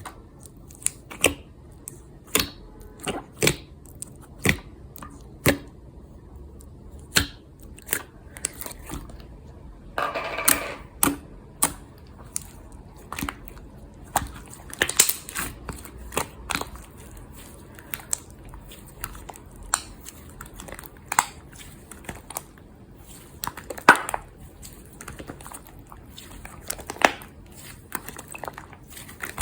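Slime being pressed and squeezed by hand. It gives irregular sharp pops and crackles, with a longer stretch of crackling about ten seconds in.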